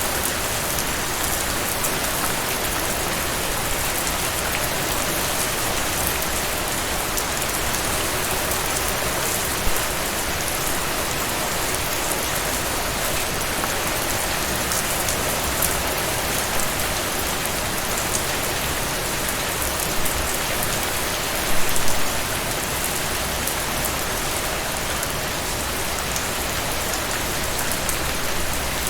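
Steady rain falling on a surface, a dense even hiss with occasional louder drops, a few heavier ones about two thirds of the way through.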